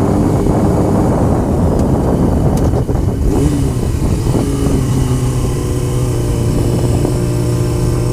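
Honda CBR motorcycle running at road speed, with heavy wind buffeting on the microphone. The engine's steady note comes through more clearly from about three seconds in.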